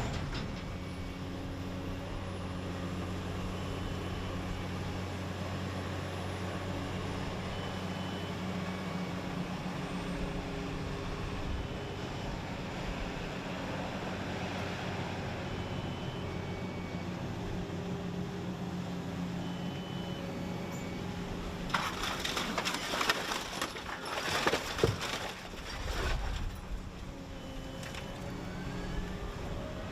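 Car-shredding plant machinery running with a steady hum. Near the end come a few seconds of loud, irregular crashing and clattering, typical of scrap metal being fed and broken up.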